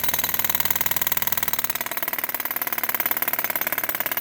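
Jackhammer breaking up thick concrete, a rapid, steady run of hammer blows.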